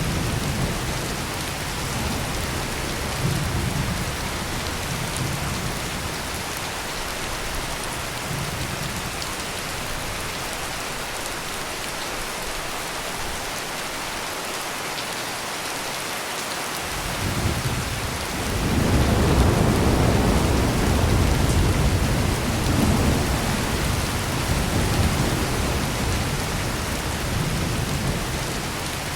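Heavy rain pouring steadily, with low rolling thunder: a light rumble early on, then a long, loud roll of thunder building from a little over halfway through and dying away near the end.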